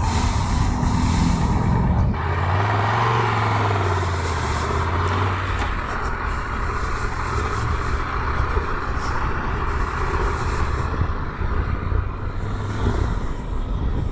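Triumph Tiger 1200 GT Explorer's three-cylinder engine running under way, with steady wind and road noise over the helmet camera. The engine note drops about two seconds in and falls for a few seconds, then holds steady.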